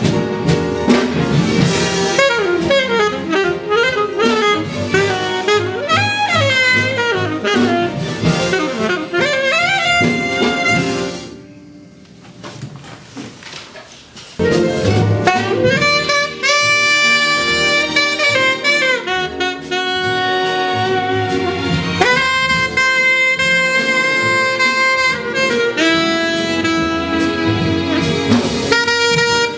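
Jazz saxophone playing quick melodic runs over a band, drops to a soft passage about halfway, then comes back in with long held notes and chords.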